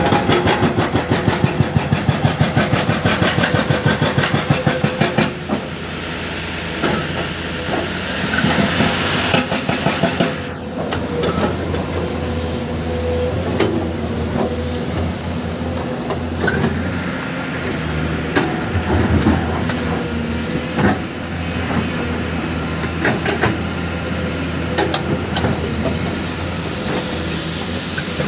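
Hydraulic breaker on an excavator hammering in a fast, even series of blows, about five or six a second, for roughly the first five seconds. Then the excavator's diesel engine runs steadily, with scattered sharp knocks of steel and rock.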